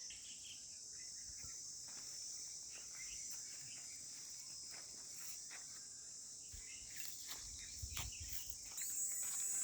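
Steady, high-pitched chorus of insects shrilling in the forest, louder near the end, with scattered faint chirps and clicks and a soft low thump about eight seconds in.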